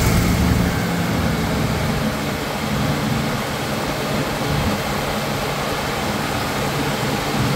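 Ford 460 cubic-inch big-block V8 in a 1972 Lincoln Mark IV running steadily with the hood open, an even engine-bay rush with a low hum. The engine has a known exhaust leak at the exhaust manifold.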